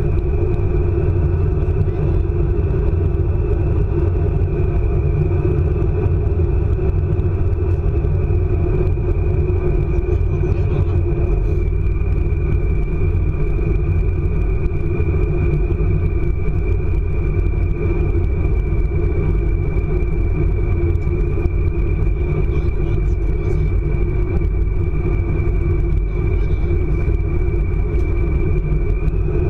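ICE high-speed train running at speed: a steady low rumble with a steady high whine over it.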